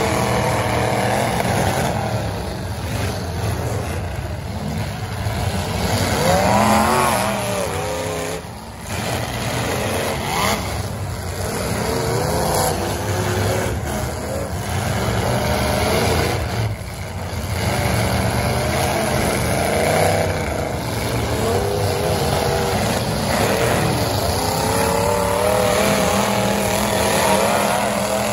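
Several full-size demolition derby cars' engines running hard together, revving up and down again and again as the cars push and maneuver in the dirt arena.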